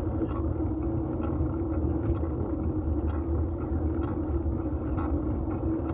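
Steady road rumble of a fixed-gear bike rolling along, picked up through a metal handlebar phone mount, with scattered light ticks from bumps.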